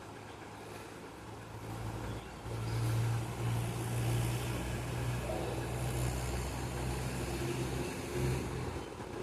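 A motor vehicle's engine running with a steady low hum, getting louder about two seconds in and dropping away near the end.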